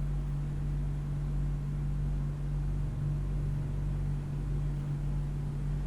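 Steady low machine hum, even throughout with no change.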